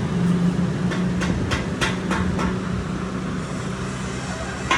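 A steady low mechanical hum, with a run of six sharp knocks, about three a second, starting about a second in, and one more knock at the end.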